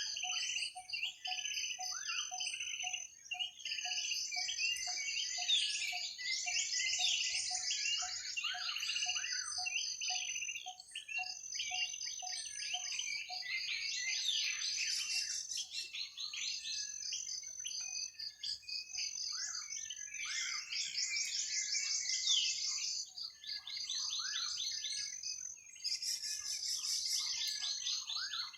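Many birds chirping and trilling at once over a steady high insect-like trill. In the first half a low note repeats about twice a second, then stops.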